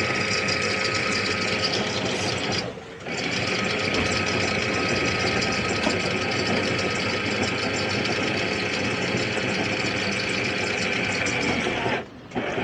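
Electric anchor windlass running as it hauls in the anchor chain, a steady motor whirr that stops briefly about three seconds in and cuts off near the end. This windlass struggled to pull the chain up.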